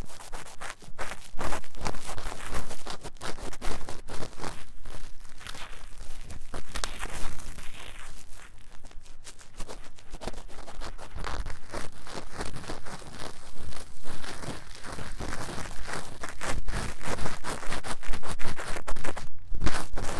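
Ear-cleaning tools scratching fast and vigorously in the silicone ear of a 3Dio binaural microphone: a dense run of rapid scraping, crackling strokes, a little louder near the end.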